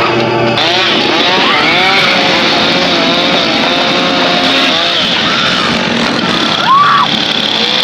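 Two-stroke chainsaw running and revving. Its pitch wavers up and down, with a sharp rev near the end.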